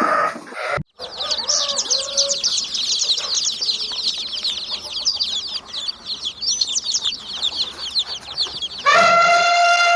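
A flock of poultry chirping: a dense crowd of high, short, overlapping cheeps. Near the end a rooster crows, a loud call held steady and then falling in pitch. It opens on the tail of a bleat that is cut off abruptly.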